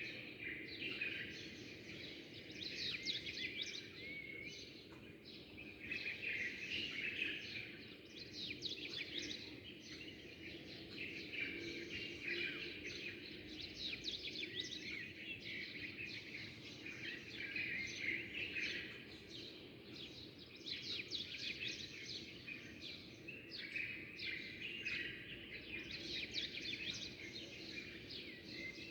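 A flock of small birds chirping continuously, many short overlapping calls at once, over a steady low background noise.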